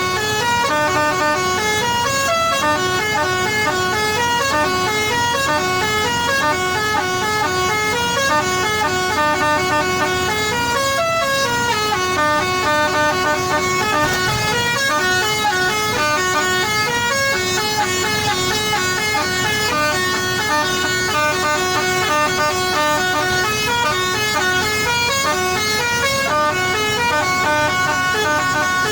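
Pakistani-style musical truck horn playing a tune: a steady run of notes stepping up and down, repeating over and over without pause.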